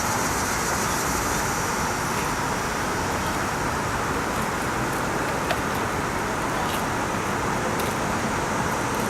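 Heavy thunderstorm rain falling steadily: a constant hiss, with a few faint ticks of single drops.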